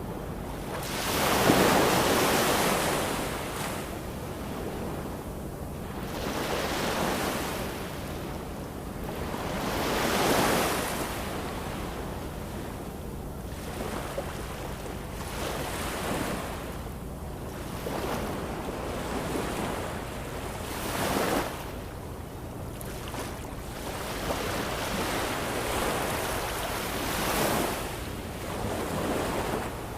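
Ocean waves breaking and washing up on shore, the surf swelling and fading every four to six seconds; the loudest wave comes about a second in.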